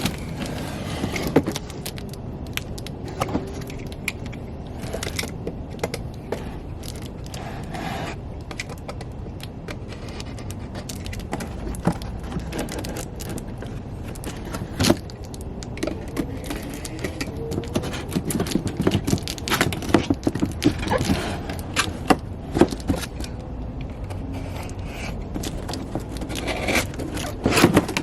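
Handling noise from unboxing: a cardboard box and its packing being opened and moved about, with scattered clicks, knocks, scrapes and rustles over a low steady hum. The handling is busiest in the second half.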